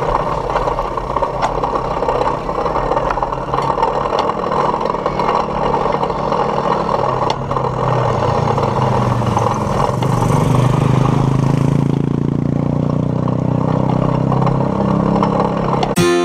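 Rattling and wind noise from a camera mounted on a moving bike, with a motor engine whose low hum grows stronger over the second half. Guitar music cuts in at the very end.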